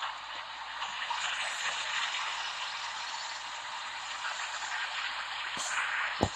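Steady road and wind noise of a moving vehicle, an even hiss, with one sharp click near the end.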